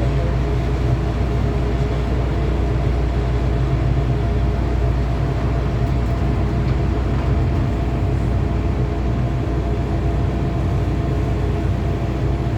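MTR M-Train electric multiple unit running between stations, heard from inside the carriage: a steady low rumble of wheels on track, with several steady traction-motor tones held above it.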